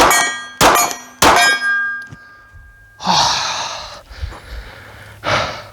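Three pistol shots about 0.6 s apart, each bullet striking a steel target that rings out with a clear metallic ping. Two shorter rushes of breathy noise follow, one about halfway through and one near the end.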